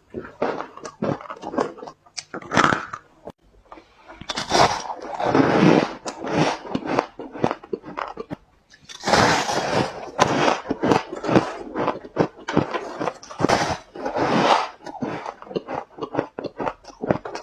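Ice being bitten and crunched between the teeth close to the microphone: many sharp cracks, with longer stretches of grinding crunching about four seconds in, again from about nine to eleven seconds, and near fourteen seconds.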